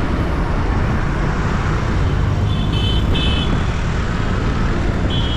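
Busy city street traffic heard from a moving vehicle: a steady rumble of engines and road noise, with short high-pitched horn beeps about two and a half seconds in and again near the end.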